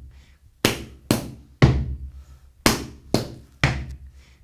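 Gumboot dance strikes: hands slapping rubber gumboots and legs, with foot stamps on a wooden platform. They fall in two groups of three sharp strikes about half a second apart, each group ending on its loudest hit.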